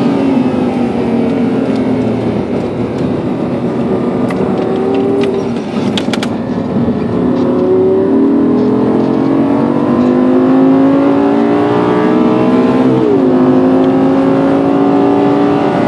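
Audi R8 GT's V10 engine heard from inside the cabin under hard track driving. The engine note falls at first as the car slows, then climbs steadily for several seconds under full acceleration. It drops sharply with an upshift about thirteen seconds in and starts climbing again. A few sharp clicks come near the middle.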